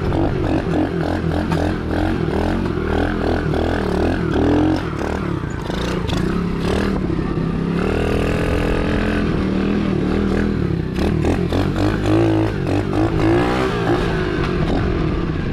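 125cc single-cylinder dirt bike engine running hard under the rider's throttle, its pitch rising and falling several times as it revs up and eases off.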